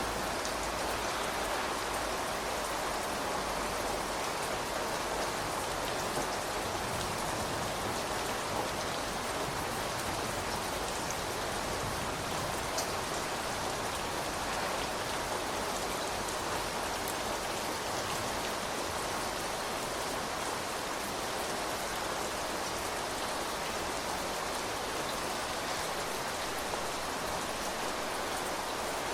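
Steady rain falling, a continuous hiss with scattered individual drops striking surfaces.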